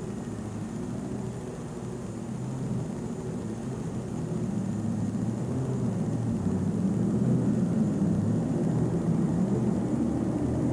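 Massey Ferguson Super Stock pulling tractor's turbocharged diesel engine running hard under load on a pull, getting steadily louder.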